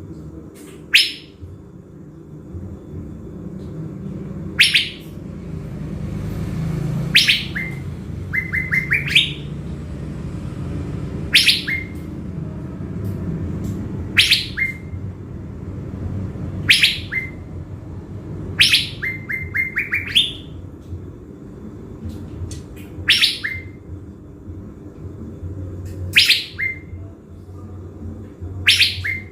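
Caged thanh lam decoy songbird singing repeatedly, a phrase every two to three seconds: each a sharp, high falling whistle, often followed by a quick run of short rising notes. A steady low rumble lies underneath.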